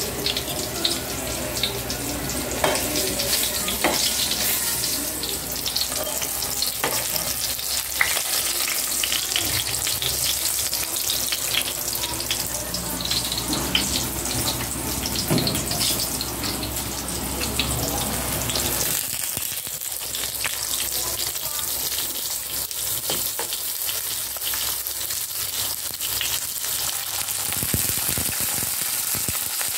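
Eggplant halves and slices frying in hot oil in a pan: a steady sizzle with scattered crackles and clicks.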